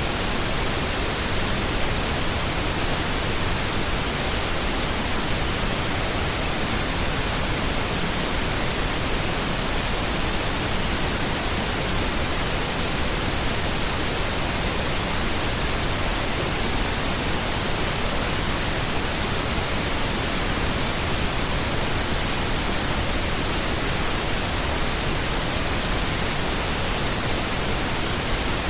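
Steady pink noise: an even, unchanging hiss spread across low and high pitches, with no events or variation.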